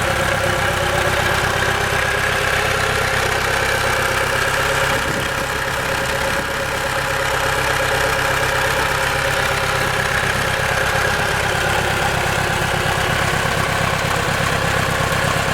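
MerCruiser 3.0 four-cylinder sterndrive engine idling steadily while being flushed with fresh water out of the water.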